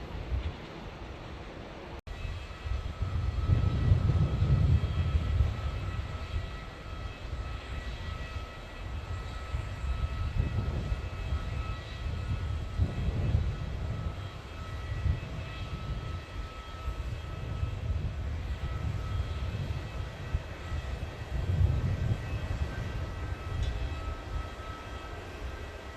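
Jet airliner engines: a low rumble that swells and fades several times, over a steady high-pitched whine.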